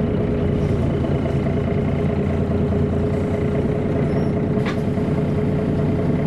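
Steady drone of a MAN A23 NG313 articulated city bus's diesel engine, heard from inside the passenger cabin, with a steady whine above it. There is a brief click about four and a half seconds in.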